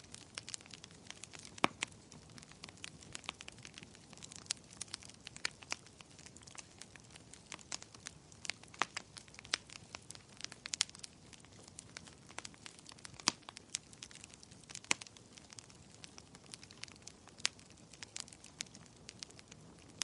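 Wood fire crackling: irregular sharp pops and snaps several times a second, a few louder, over a faint steady hiss of rain.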